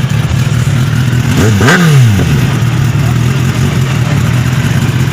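Motorcycle running at speed: a steady engine drone with wind noise, and about a second and a half in a brief engine sound rising and then falling in pitch.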